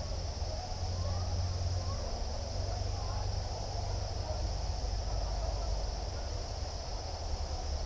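Nature ambience: a steady high-pitched chorus of crickets or similar insects over a low rumble, with a few short rising chirps in the first few seconds.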